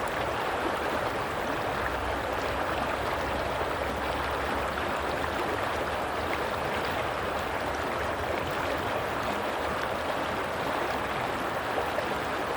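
Flowing water of a stream, a steady rushing and gurgling at an even level.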